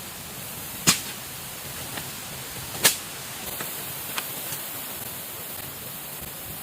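Two sharp knocks about two seconds apart, followed by a few fainter ticks, over a steady hiss.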